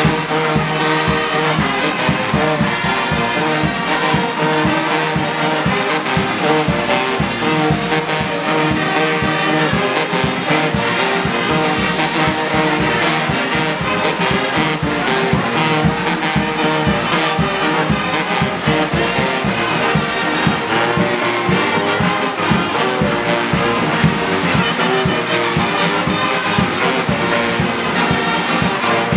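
Brass band playing music with trombones and trumpets over a steady, even beat.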